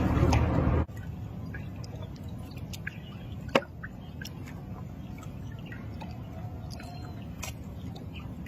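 Wind rushing on the microphone aboard a boat, cutting off abruptly under a second in. After that, a quiet steady hiss with scattered small clicks and one sharper click a few seconds in.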